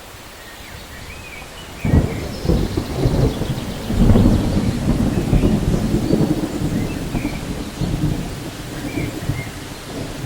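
Rainforest thunderstorm: steady rain, with thunder breaking in about two seconds in and rumbling on, and birds chirping faintly over it.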